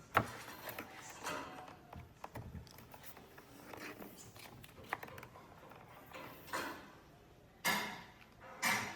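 A sharp knock, then a run of short, noisy swishes like something being handled or worked, the two loudest close together near the end.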